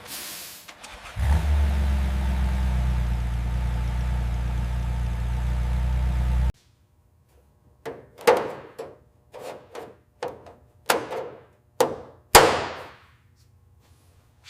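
A car engine running steadily for about five seconds, then cutting off abruptly. It is followed by a series of short, sharp sounds, the loudest near the end.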